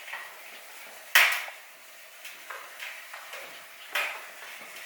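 Whiteboard marker or eraser knocking against the board: one sharp clack about a second in, then a few lighter clicks.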